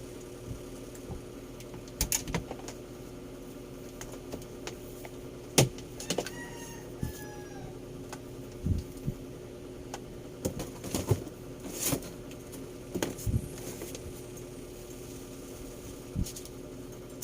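Scattered light clicks and knocks, as of small objects being handled, over a steady low electrical hum.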